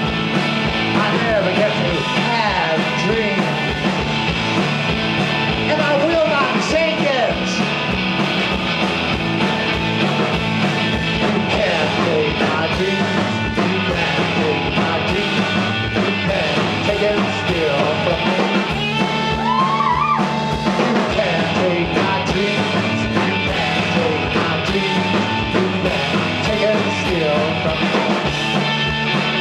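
Live rock band playing an instrumental passage: electric guitar lead with bending, gliding notes over drums and bass.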